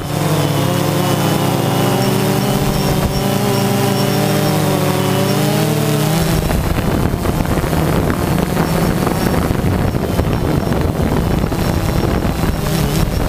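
Drone motors and propellers whirring with a slightly wavering pitch. After about six seconds the steady tones give way to a rougher rushing noise like wind on the microphone.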